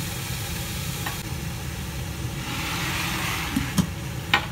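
Morning glory and stock sizzling and steaming on high heat inside a covered enamel pot, over a steady low hum. The hiss swells about halfway through, and the lid knocks lightly three times near the end.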